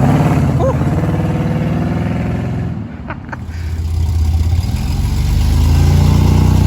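Car engine running with a loud, low rumble. It fades about three seconds in, then builds again as an engine comes close.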